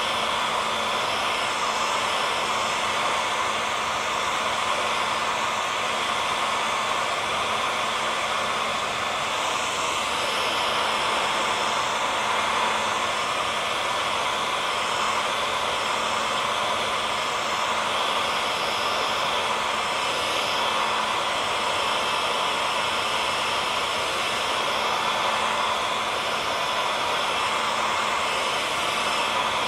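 Hair dryer running continuously, a steady rushing blow with a faint hum in it.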